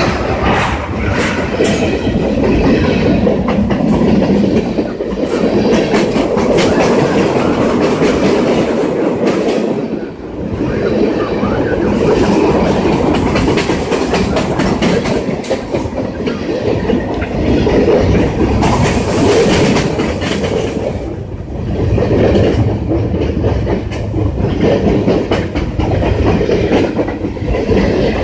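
Train passing close by, a loud continuous rumble with the clickety-clack of its wheels over rail joints.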